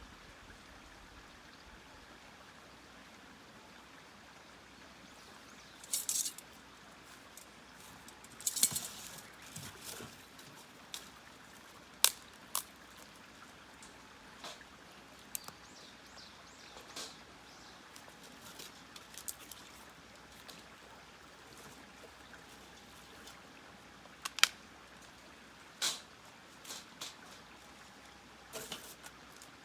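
Sparse handling noises: scattered sharp clicks and knocks, with two short scrapes about six and eight seconds in.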